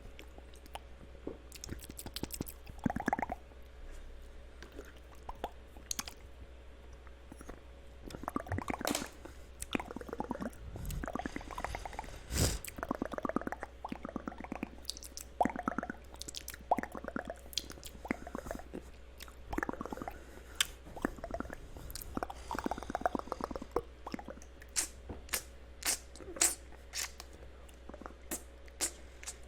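Layered ASMR mouth sounds close to the microphone: an irregular run of wet clicks, smacks and squishy tongue sounds, busier after the first few seconds.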